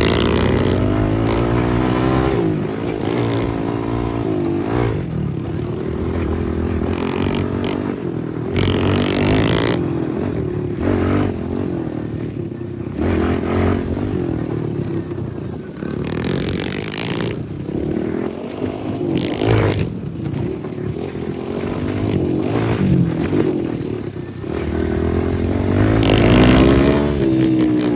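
Pit bike engine being ridden, revving up and down over and over, its pitch rising and falling, with short bursts of hiss.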